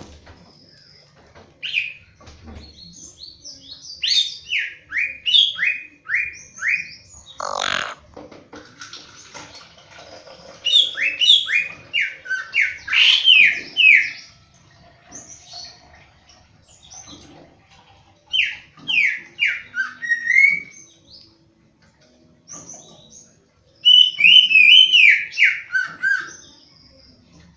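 Cucak ijo (a leafbird) singing in phrases of quick, falling whistled notes, four bursts with pauses between them. There is a brief knock about seven seconds in.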